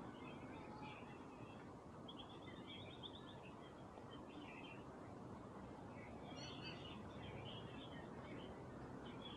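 Small birds chirping in scattered bursts of quick twitters over a low, steady background hum.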